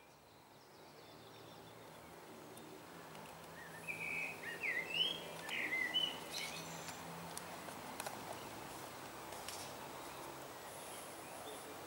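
Small birds chirping, with a flurry of quick calls from about four to seven seconds in, over a faint steady low hum.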